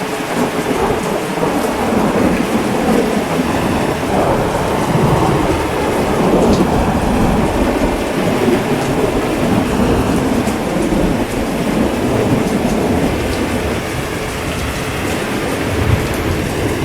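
Heavy rain falling steadily, with a long rumble of thunder that swells about half a second in and rolls on, easing slightly near the end.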